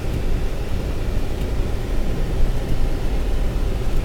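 Steady low rumble of a Ford Expedition driving slowly on a snowy, slushy road, heard from inside the cabin: engine and tyre noise with no distinct events.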